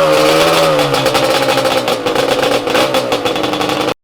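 Engine running at high revs, its pitch wavering slightly, cut off abruptly near the end.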